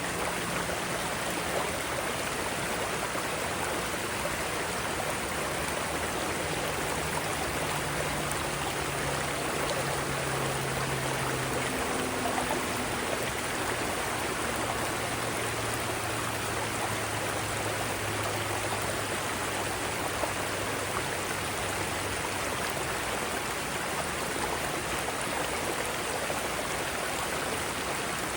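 Mountain stream running over rocks in small cascades: a steady, even rush of water.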